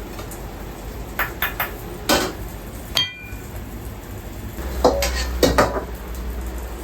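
Kitchen clatter of dishes and metal utensils: a few short clinks and knocks, a brief ringing clink about halfway through, then a quick cluster of knocks near the end.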